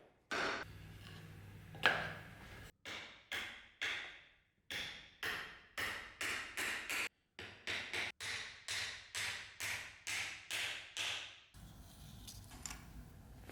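A long series of sharp taps or knocks, each dying away briefly. For a few seconds in the second half they come in an even rhythm of about two or three a second.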